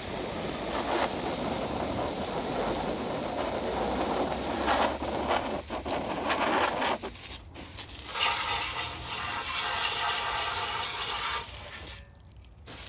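Water spraying onto a muddy minibike with a steady hiss, breaking off briefly about seven seconds in and stopping near the end.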